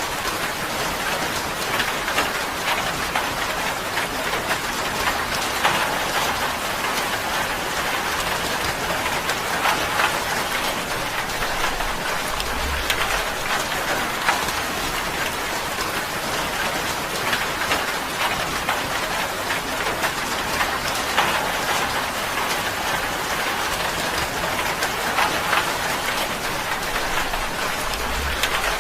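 Steady rain drumming on a tin roof, a dense patter of individual drops over an even hiss, with a few brief low rumbles.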